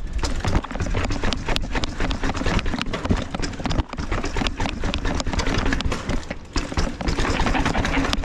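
Mountain bike clattering and rattling over rough ground on a descent, with a rapid irregular run of knocks and clicks over a low rumble.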